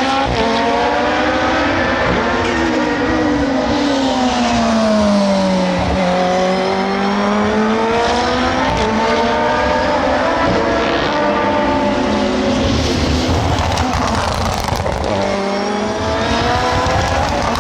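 Several SUPER GT race cars running past at speed, their engine notes overlapping and rising and falling as they go by. One car's note sweeps down clearly about two to six seconds in.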